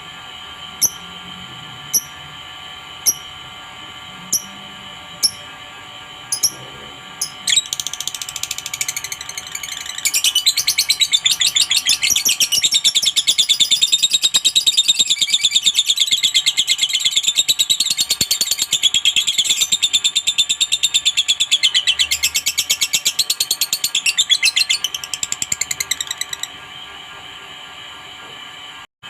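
Lovebird giving short sharp chirps about once a second, then breaking into a long, very rapid chattering trill, the 'ngekek' song, that runs for about sixteen seconds before stopping near the end. A faint steady hum lies underneath.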